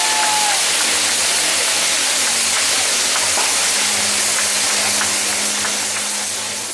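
Ground fireworks spraying with a loud, steady hiss and scattered small crackles. A whistle dies away in the first half-second, and the hiss fades out near the end.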